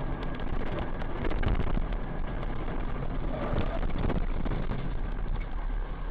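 Vehicle running, heard through a dash cam's microphone: a steady rumble of engine and road noise with many scattered small clicks and knocks.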